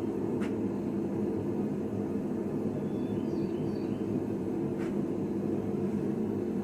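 Steady low rumbling noise, with a few faint high chirps and two faint clicks.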